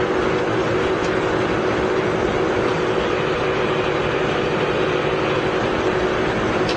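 Poreba TCG 160 engine lathe running, its spindle and gearbox giving a steady, even mechanical hum.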